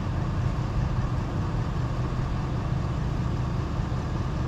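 Truck engine idling steadily with an even low hum.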